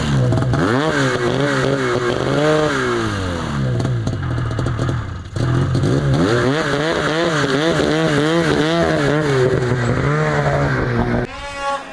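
Arctic Cat snowmobile's two-stroke engine revving up and down over and over as the sled is ridden, easing off briefly about five seconds in. Near the end the engine's low end drops off sharply.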